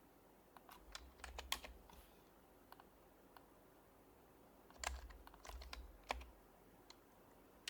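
Typing on a Happy Hacking Keyboard Professional HYBRID Type-S, a silenced Topre capacitive keyboard: two short bursts of soft keystrokes, one about a second in and another about five seconds in, with pauses between.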